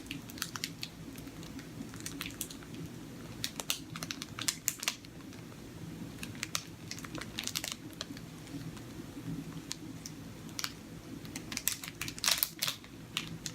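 Quiet chewing of a bite of a whole wheat raspberry fig bar and handling of its plastic wrapper: irregular small clicks and crinkles, bunched a few seconds in and again near the end, over a low steady room hum.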